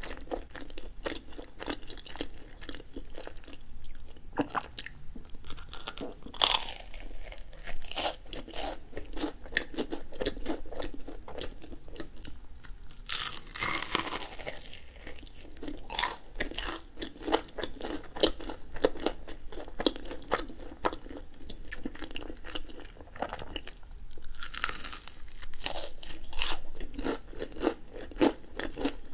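Close-miked chewing and crunching of a corn dog's fried batter, with a few louder crunching bites spread through.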